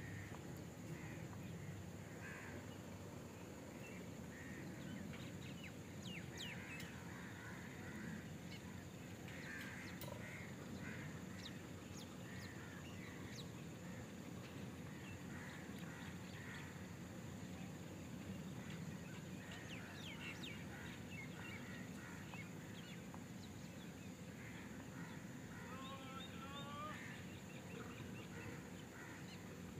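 Birds calling on and off, short scattered calls over a faint steady outdoor background, with a quick run of repeated calls near the end.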